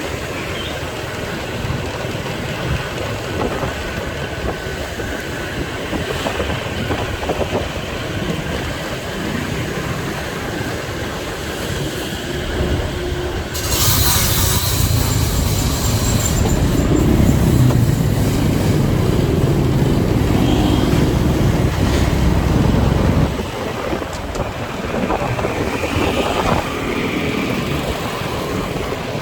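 A motorcycle riding through city traffic: steady engine and road noise. About halfway through, a louder deep rumble begins with a brief hiss and lasts several seconds before dropping back.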